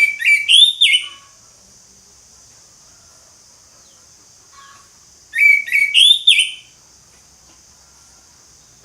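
Orange-headed thrush singing loud, clear whistled phrases: a burst of quick rising notes at the start and another about five seconds in, over a faint steady high hiss.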